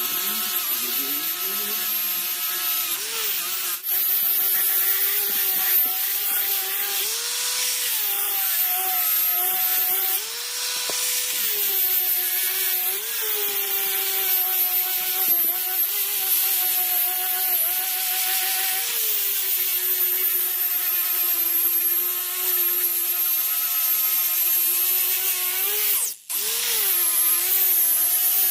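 A handheld electric power tool runs continuously with a steady whine over a hissing, abrasive noise. Its pitch dips now and then as it bears on the work, and it breaks off sharply for a moment near the end.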